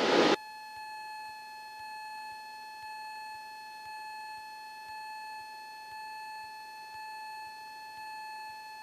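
A steady high-pitched electrical whine, one held tone with overtones, on the cockpit headset audio of a Cessna 172 in flight, with no engine noise coming through.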